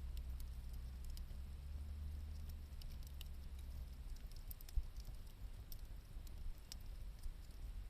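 Wood campfire crackling: scattered small sharp pops and ticks, a few a second, over a low steady rumble.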